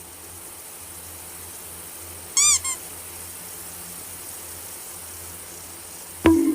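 A cat gives one short meow followed at once by a brief second, shorter call, over a steady background hum and hiss. Near the end comes a single sharp knock.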